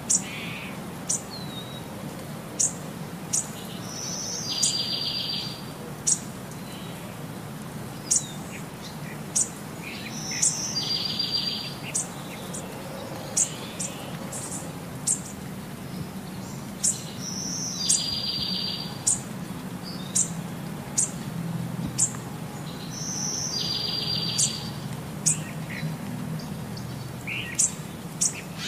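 Birds chirping in an evenly repeating pattern: short, sharp high chirps about once a second, with a longer rapid trill every six or seven seconds, over a low steady hum.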